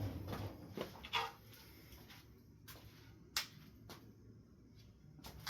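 A few scattered light knocks and clicks of objects being handled, with quiet between them. The one a little past the middle is the loudest.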